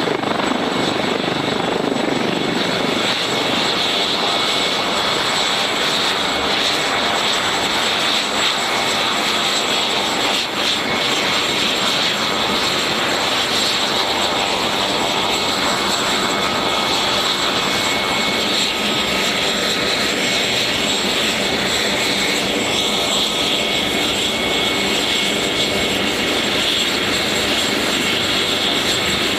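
MH-139A Grey Wolf helicopter running steadily: its turboshaft engines give a constant high whine over the rotor noise.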